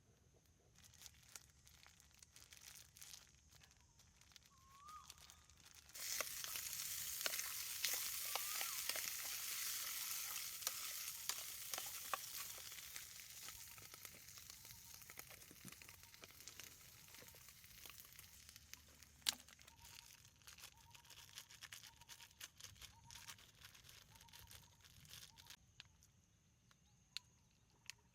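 Food frying: a sizzle full of crackles starts suddenly about six seconds in and slowly dies down. Scattered clicks and taps come before it.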